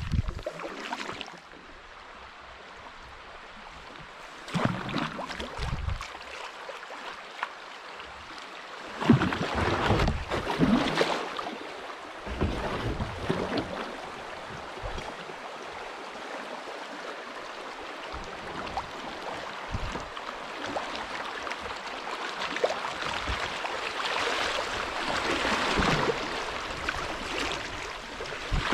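River water splashing and rushing around a kayak on the move, with louder surges of splashing every few seconds.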